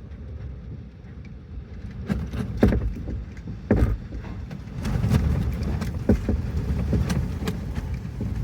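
Windstorm gusts buffeting with a heavy low rumble, growing stronger about halfway through, with several sharp knocks and rattles of things being battered by the wind.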